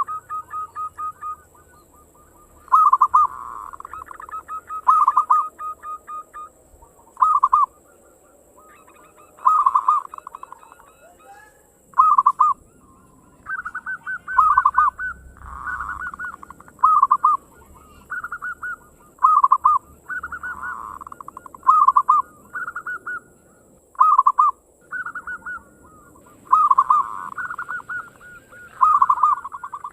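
Zebra doves (perkutut) cooing: quick, rattling, staccato coos repeated every second or two, with phrases overlapping at times, as if from more than one bird.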